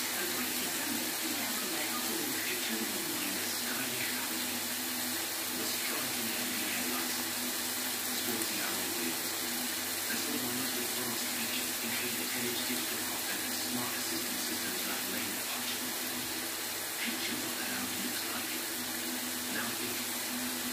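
Chicken, onion and carrot strips frying in a pan: a steady sizzling hiss with faint scattered crackles.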